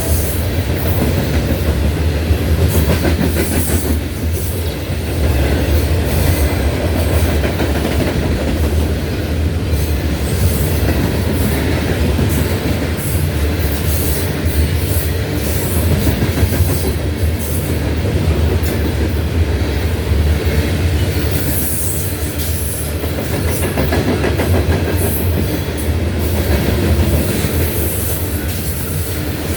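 Loaded coal train's cars rolling steadily past, their wheels clicking and rumbling over the rails in a continuous clickety-clack.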